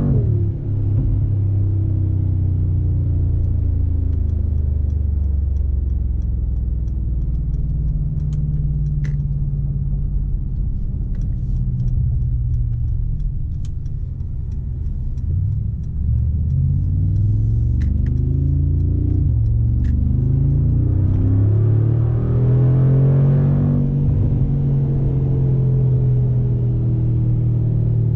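Mercedes-AMG G63's 4.0-litre twin-turbocharged V8 under way. It drones steadily at first, then in the second half its pitch climbs and drops back several times as the automatic gearbox shifts up through the gears under acceleration. A few faint ticks come through in the middle.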